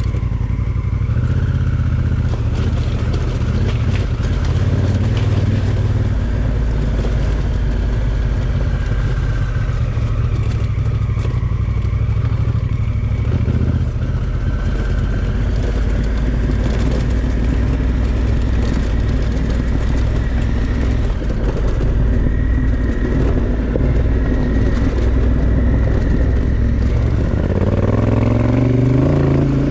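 Honda Africa Twin Adventure Sports' parallel-twin engine running under way, a steady low engine note that picks up speed near the end.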